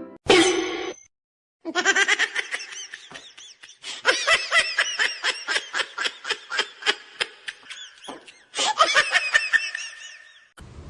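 High-pitched laughter, a long run of quick laugh bursts several a second, briefly breaking off about eight seconds in.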